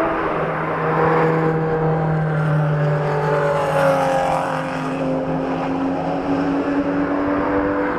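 Supercar engine running loudly, its note holding fairly steady with small shifts in pitch.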